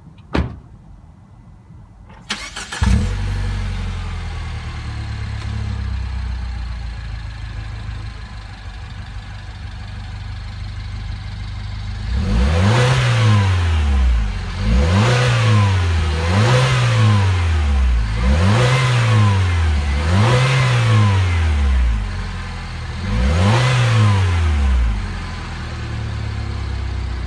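2015 MINI Cooper S Countryman's turbocharged 1.6-litre inline-four, heard at its twin tailpipes, starting up about three seconds in with a brief flare and settling to a steady idle. From about halfway through, the throttle is blipped six times, each rev rising and falling back to idle.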